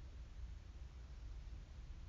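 Quiet room tone: a steady low rumble with faint hiss, and no distinct events.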